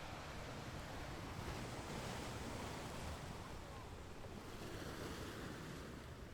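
Ocean surf washing on a beach with some wind, a steady hiss that swells about two seconds in and eases off near the end.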